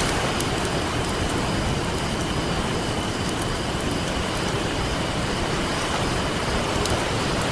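Ocean surf making a steady rush with a campfire crackling over it, a few small sharp pops from the burning wood.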